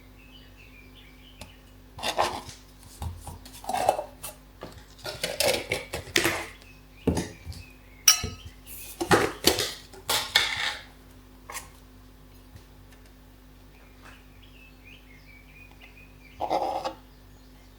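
Dishes and cutlery being handled: a run of clinks and clatters for several seconds, then one more clatter near the end.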